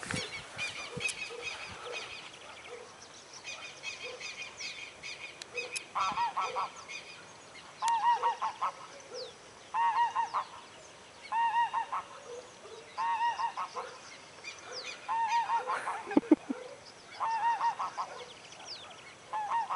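Birds calling outdoors: small birds chirp at first, and from about six seconds in a honking call comes in short groups of several notes, repeating about every one and a half seconds.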